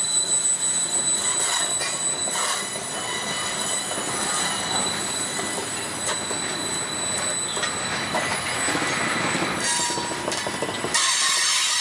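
Freight train cars rolling past close by: steel wheels on rail, with a steady high-pitched squeal and scattered clicks and clanks. About eleven seconds in the sound turns abruptly thinner and hissier.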